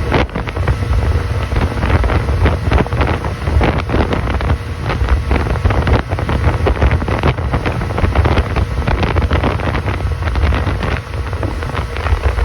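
Boat running under way, with wind buffeting the microphone in a loud, steady rumble over the motor and water noise.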